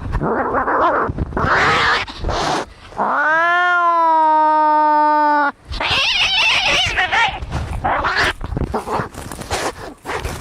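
Cats fighting: harsh hissing and spitting, broken by one long yowl about three seconds in that rises in pitch and then holds steady for a couple of seconds before more hissing.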